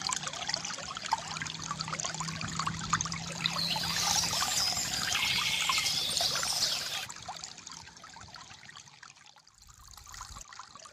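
Water trickling and gurgling from a bamboo fountain spout, in a busy run of small splashes; it drops quieter for a couple of seconds near the end, then rises again.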